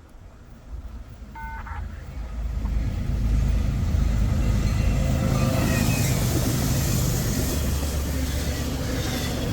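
Westbound CSX train's diesel locomotives arriving close by: a low engine rumble builds over the first three seconds and holds steady, with a rising hiss of wheels and rushing air from about halfway. A short beep sounds about a second and a half in.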